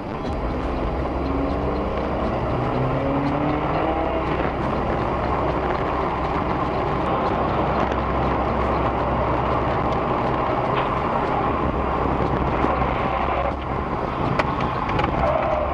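Motor vehicle driving, a steady mix of engine and road noise. The engine pitch climbs over the first few seconds as it accelerates.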